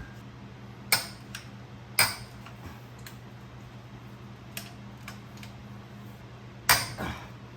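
Metal tools and parts clinking and knocking during motorcycle disassembly: a handful of separate sharp clacks, the loudest pair near the end, over a steady low hum.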